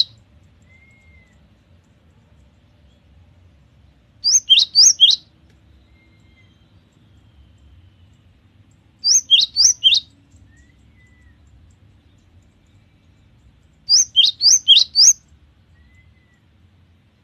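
Cinereous tit (gelatik batu) singing: three loud bursts of about five quick, high, downward-sweeping notes, each burst lasting about a second and coming every four to five seconds.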